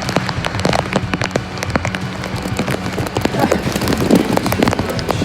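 Water splashing and spattering in quick, irregular crackles, over a steady low hum.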